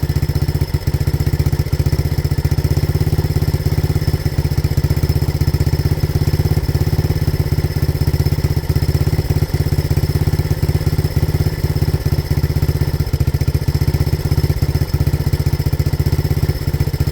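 1985 Honda ATC 200X's single-cylinder four-stroke engine idling steadily through a new universal slip-on muffler, a Chinese copy of a Yoshimura, on its first run. The idle holds even, the machine now idling properly after long trouble with its idle.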